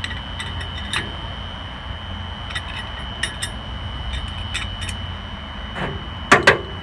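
Small metal screws clinking as they are handled and dropped into the bolt holes of a new flywheel ring gear, with a couple of louder metal knocks about six seconds in.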